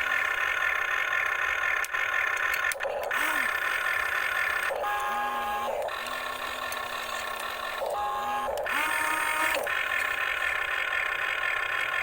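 Small electric motors and gearboxes of a radio-controlled model excavator and truck whirring with a steady whine, stopping and restarting briefly every few seconds.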